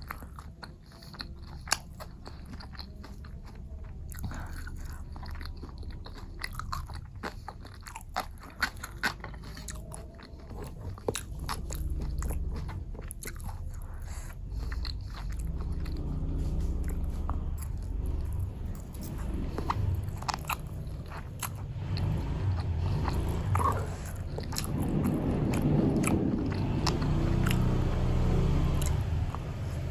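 Close-miked eating of martabak telur and spicy noodles: biting, crunching and chewing with many sharp mouth clicks. A low rumble grows in the second half.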